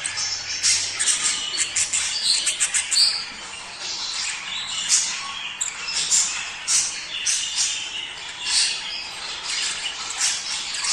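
A flock of budgerigars chattering in breeding season, with many short chirps and squawks overlapping without a break.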